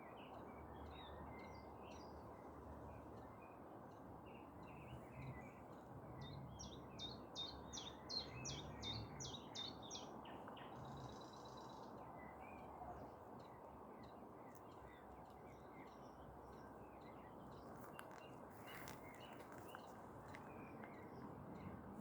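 Small songbirds chirping and singing over a steady low hum of city noise. About six seconds in, one bird gives a louder run of quick repeated notes, ending in a short buzzy trill.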